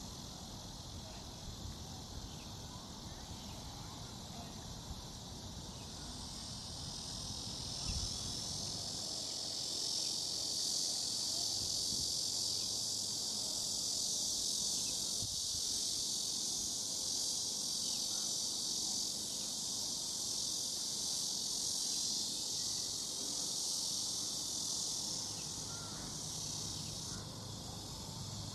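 Steady high-pitched drone of a chorus of insects, swelling louder after several seconds and easing a little near the end.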